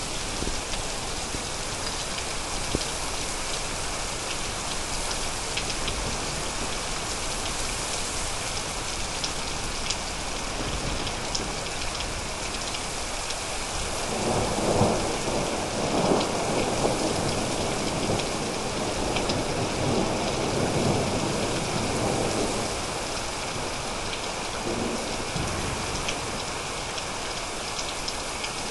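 Thunderstorm: steady rain with scattered drops ticking, and a roll of thunder that swells about halfway through, rumbling for several seconds before fading back into the rain.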